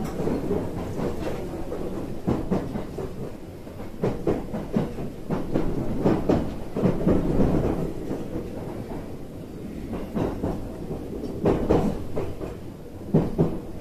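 Hanwa Line rapid train running, heard from inside the carriage: a steady rumble with the wheels clacking over rail joints.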